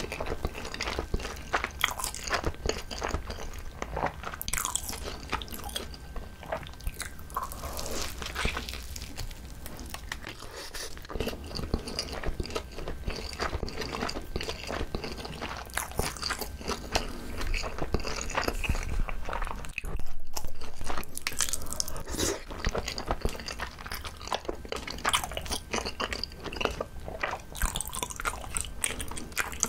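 Close-miked chewing and biting of gimbap, a seaweed-wrapped rice roll, with many small crunches.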